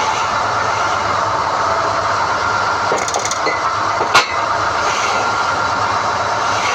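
SDH-1600 core drilling rig running steadily while NQ drill rods are pulled, with a sharp knock just after four seconds in.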